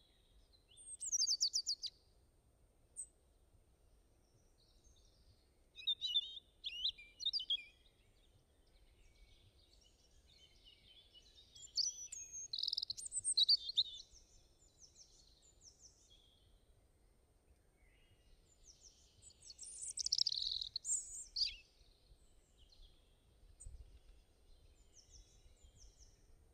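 Birds chirping and calling in short clusters of quick high notes every few seconds, over a faint steady low background noise.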